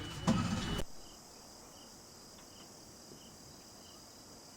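Evening insect chorus of crickets: a steady high-pitched shrill with a short chirp repeating about every two-thirds of a second. It comes in after a brief louder sound that cuts off about a second in.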